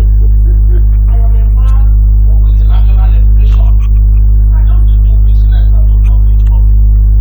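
A loud, steady low hum, with faint music and voices over it.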